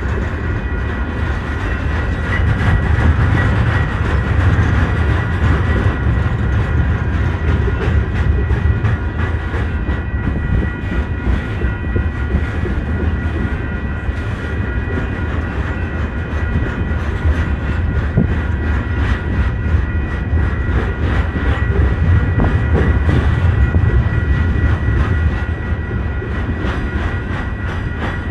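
Union Pacific coal train's hopper cars rolling past at steady speed: steel wheels rumble and click over the rail joints, with a steady high-pitched ring over the top.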